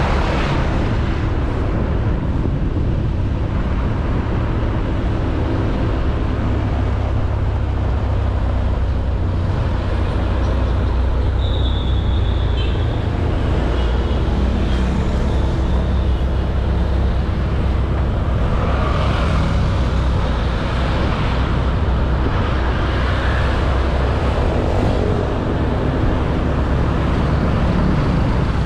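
Honda Beat 110cc scooter's single-cylinder engine running steadily while riding, with a continuous low rumble of engine and road noise.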